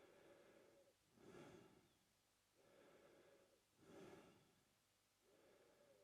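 Faint, slow mouth breathing of a man: soft airy inhales and exhales in an even rhythm, about one full breath every two and a half seconds.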